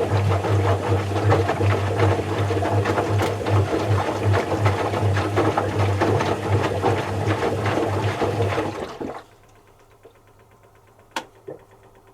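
Zanussi FC1000 compact washing machine pumping out, its drain pump running with a steady hum over water noise, then cutting off abruptly about nine seconds in. Near the end come two small clicks.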